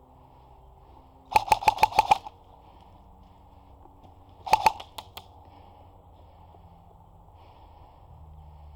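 Airsoft gun firing at close range: a quick string of about six shots, then after a pause a short burst of two or three and two more single shots.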